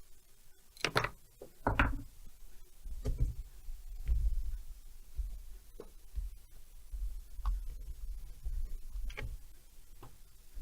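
A handful of irregular knocks and taps of hand tools and metal parts being handled while a chainsaw engine is taken apart, the loudest in the first few seconds.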